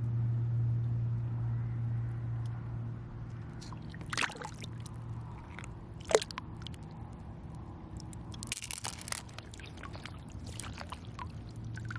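Shallow running water sloshing and trickling at the shoreline, with many scattered clicks of shells and pebbles and a sharper knock about six seconds in. A steady low hum runs underneath.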